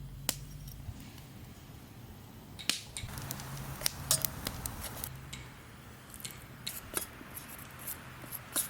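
Scattered sharp clicks and light clatter of small hard objects being handled, coming more often after about two and a half seconds.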